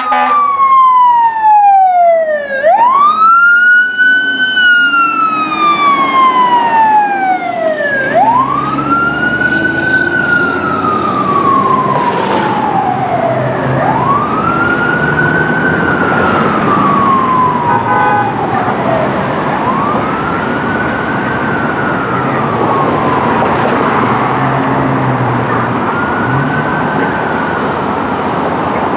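Fire engine siren wailing in slow cycles, each winding up quickly and gliding down over about five seconds, five times, growing fainter. A heavy engine rumble runs underneath from about a quarter of the way in.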